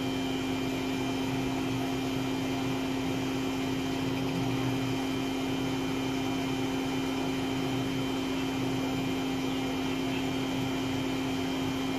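Homemade table saw's electric motor and blade running inside a closed plywood enclosure lined with egg-crate sound-deadening foam: a steady hum with one strong low tone and fainter higher tones.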